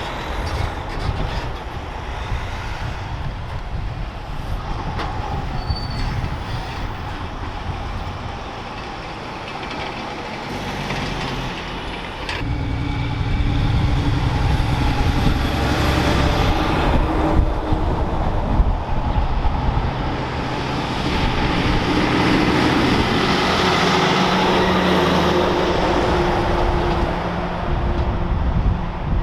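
Heavy diesel vehicle running close by, its rumble growing louder about twelve seconds in and staying loud.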